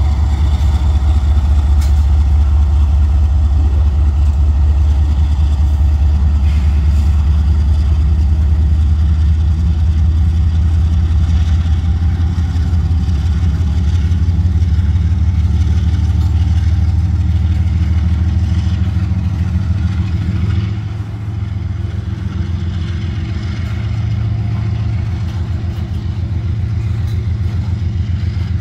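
Freight train rolling past close by: a loud, steady low rumble from the diesel locomotive and the loaded rock hopper cars, with continuous wheel clatter. The loudness drops a little about two-thirds of the way through, as the locomotive draws away and only the cars pass.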